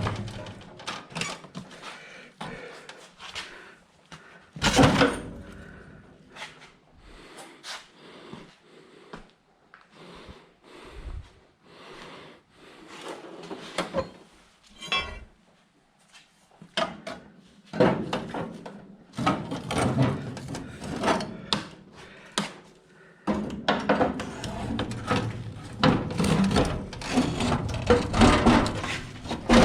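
Irregular clanks, knocks and scrapes of hand tools working on car body metal, with one loud knock about five seconds in and a quick run of clicks a few seconds before the middle. The clanking gets busier in the last dozen seconds.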